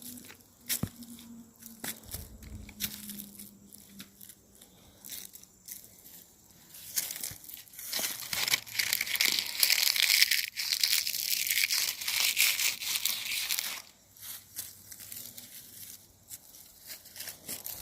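Footsteps crunching and crackling through dry leaves and brush, with scattered snaps, getting denser and louder from about seven to fourteen seconds in.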